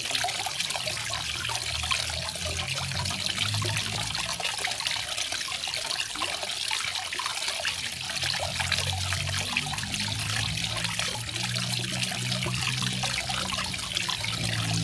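Garden waterfall: water trickling and splashing steadily, a dense even patter of small splashes with a low rumble beneath.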